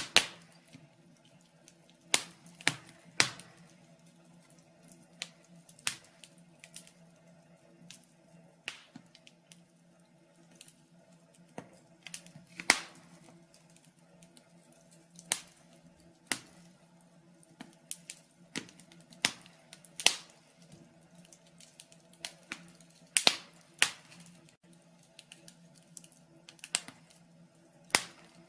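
Wood fire crackling in a fireplace: sharp pops and snaps at irregular intervals, a few every couple of seconds, over a faint steady hum.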